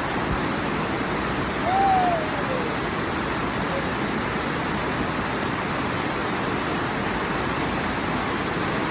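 Steady rain falling, an even hiss with no let-up. About two seconds in, a short voice cry falls in pitch over it.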